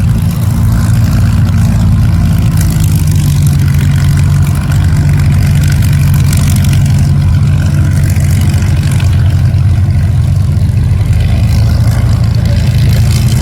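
Spitfire V12 piston aero engines running steadily at low power on the ground before take-off, a loud, even low throb.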